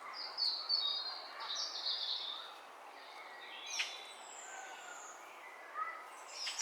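Wild birds singing and calling: high twittering chirps about half a second in and again near the end, a single sharp call near the middle, and a thin falling whistle.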